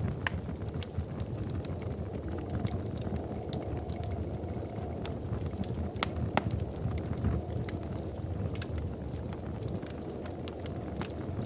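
Wood fire burning in a fireplace: a steady low roar of flames with irregular sharp crackles and pops, a few louder pops about six seconds in.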